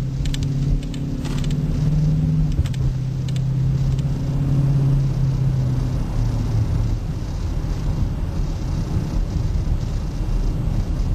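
2008 Dodge Charger R/T's 5.7L Hemi V8 through an aftermarket Zoomers exhaust, heard from inside the cabin while driving: a steady low exhaust drone. About six seconds in, the drone fades and an even low road rumble is left.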